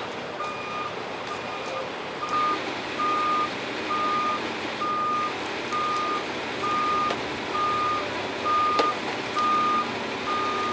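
Vehicle backup alarm beeping steadily, a single-pitch beep repeating about three times every two seconds, over a steady background of vehicle noise.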